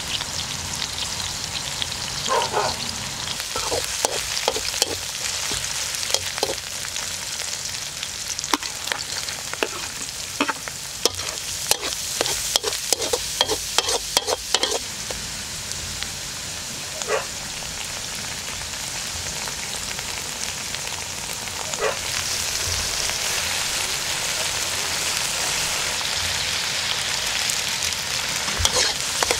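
Ground beef, carrots and vegetables sizzling in a metal wok while a metal spatula stirs and scrapes, clicking and clinking against the pan through the first half. From about two-thirds of the way in the stirring stops and the sizzle grows a little louder.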